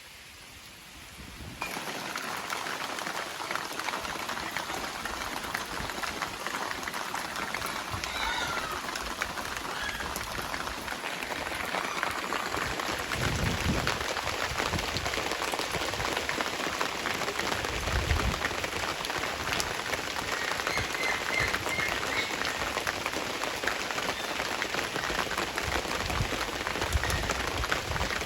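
Heavy rain falling, a dense patter of drops that turns suddenly louder about a second and a half in, with a couple of low thuds later on.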